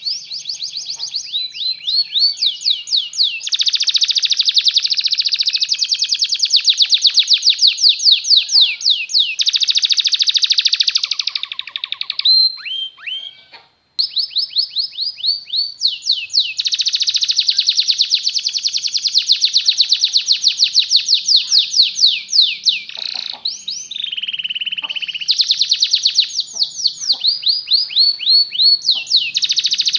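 Canary singing long, rapid, rolling trills and tours, with fast sweeping notes repeated many times a second. The song breaks off briefly near the middle, then resumes.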